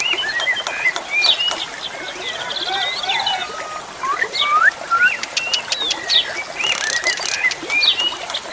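Javan pied starling (jalak suren) singing a varied, continuous song: quick whistles that glide up and down in pitch, mixed with fast runs of clicks and short rattles.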